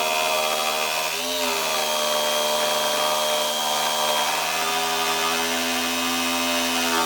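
An electric power tool running steadily with an even hum, its pitch dipping briefly about a second in as it takes load and then recovering.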